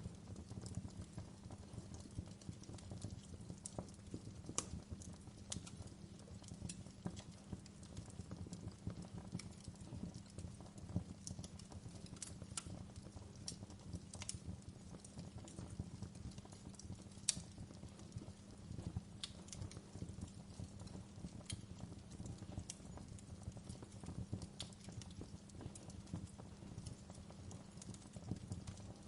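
Campfire burning: a low steady rumble of the flames with irregular sharp crackles and pops of the burning wood, a few louder snaps scattered through.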